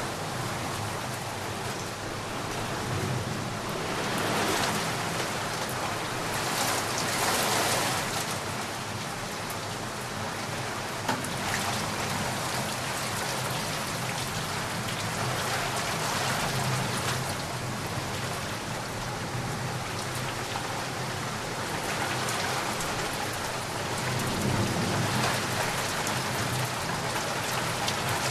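Heavy rain falling steadily, the noise of the downpour swelling and easing every few seconds.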